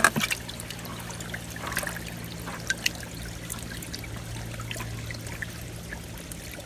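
Water steadily trickling and pouring from a pond's overflow into a shallow pool, with a few small splashes, the sharpest right at the start.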